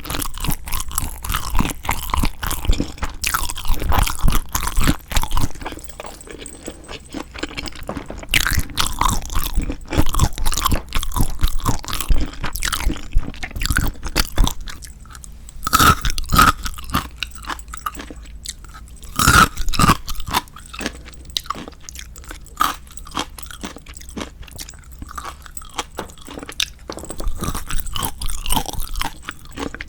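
Close-miked ASMR eating sounds: someone biting and chewing seasoned marinated raw shrimp, with wet crunching and smacking. The chewing is dense at first, with a couple of louder crunches midway, and then becomes sparser and quieter.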